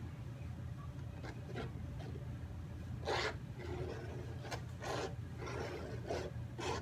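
Teardrop-shaped palette knife scraping and spreading wet acrylic paint across a stretched canvas in a series of short strokes, over a steady low hum.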